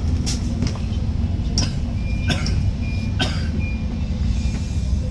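Scania K310UD double-decker bus on the move, with a steady low engine and road rumble and several sharp knocks from the bodywork in the first few seconds.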